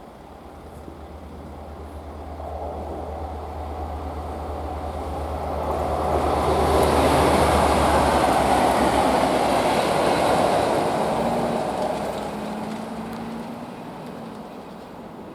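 Convoy of three locomotives, Class 57 57315, Class 31 31466 and Class 73 73001, passing by: a steady low diesel engine drone and the rumble of the train grow louder, peak about halfway through, then fade away.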